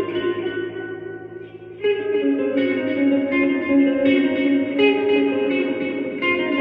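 Fender Player Telecaster electric guitar through a Fender Champion 20 amp, playing a melodic line with heavy reverb and delay so the notes ring on and overlap. The sound dies down about a second in, then fresh notes are picked just before the two-second mark and ring on together.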